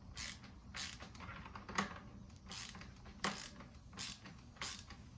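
Ratchet wrench with a 24 mm socket clicking as it loosens the air-spring top cap of a RockShox Recon fork: sharp single clicks, about one every two-thirds of a second.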